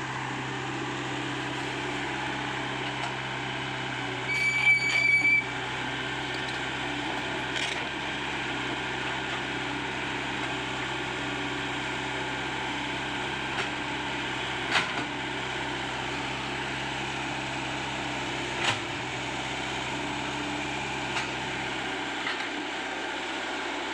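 Komatsu PC75UU excavator's diesel engine running steadily under work. About four seconds in there is a brief high-pitched squeal, and sharp metallic knocks come now and then.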